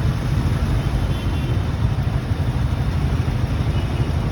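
Steady rumble of a motorcycle ride, with wind buffeting the microphone over engine and road noise.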